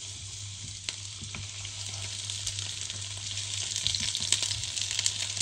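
Potato slices frying in hot oil in a nonstick pan, sizzling and crackling more densely and louder as more slices are laid in. A few light taps early on, and a steady low hum underneath.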